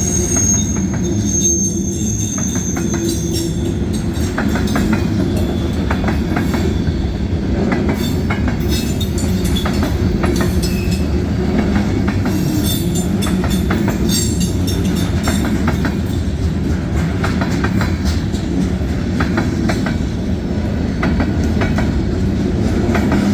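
Freight cars of a long mixed freight train rolling past with a steady rumble and a clickety-clack of wheels over a rail joint, which sounds like a newly added joint plate. A thin, high wheel squeal is heard in the first couple of seconds.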